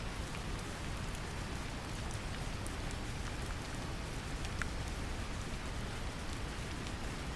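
Steady brown noise, deep and heaviest in the low end, mixed with gentle rain whose scattered drops tick lightly on top.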